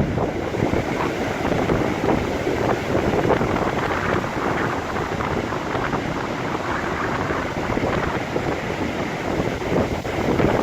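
Strong wind buffeting the microphone in uneven gusts, with sea surf washing on the shore underneath.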